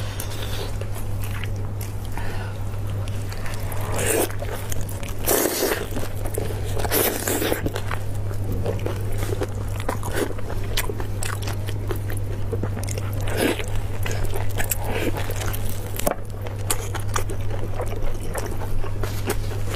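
Close-miked eating of sauce-braised beef ribs: wet biting, chewing and meat being torn apart, in a string of loud bursts a few seconds apart. A steady low hum runs underneath.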